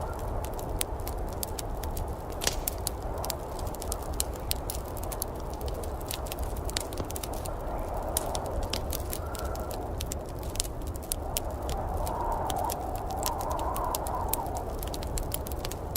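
Wood fire crackling in a fireplace, with frequent sharp pops over a steady low rumble.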